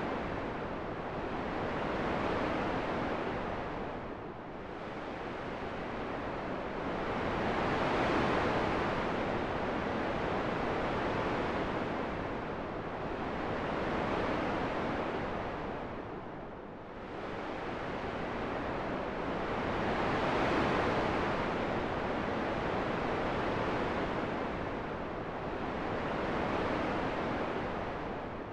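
Wind blowing as a steady rushing noise that swells and eases in slow gusts every few seconds.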